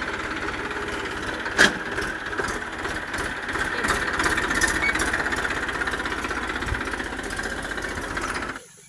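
Tractor engine running steadily, with one sharp knock about a second and a half in. The sound cuts off suddenly near the end.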